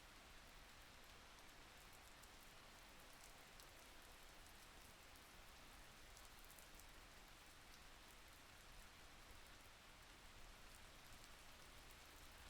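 Faint, steady rain: a soft, even hiss with scattered tiny drop ticks.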